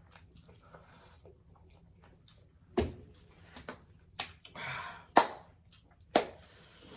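Eating sounds during a spicy noodle challenge: four sharp clicks, as of a utensil against a bowl, and about halfway through a short hissing mouth sound.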